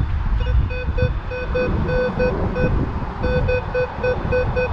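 Minelab Vanquish 440 metal detector giving a rapid run of short, same-pitched beeps, about four or five a second with a short break midway, as the coil sweeps back and forth over a buried target. Low wind noise rumbles on the microphone.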